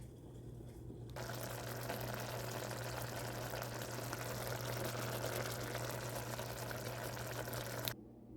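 Food sizzling and crackling in a hot frying pan, cutting in about a second in and stopping abruptly near the end, over a low steady hum.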